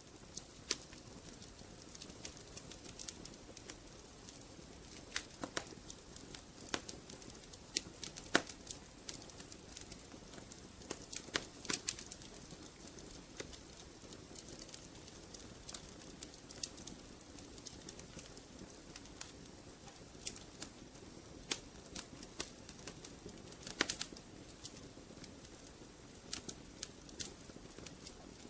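Fire crackling in a fireplace: irregular sharp pops and snaps over a soft, steady rush of flame.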